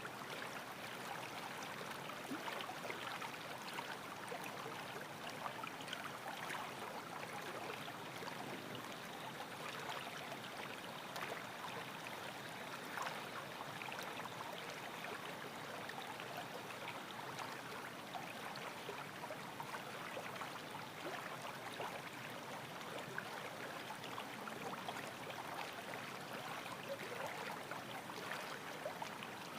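Running water: a small stream flowing steadily, an even rushing splash.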